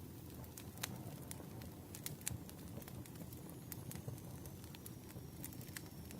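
Campfire burning, with irregular sharp crackles and pops from the wood over a low rumble. A faint thin high whistle starts about two-thirds in.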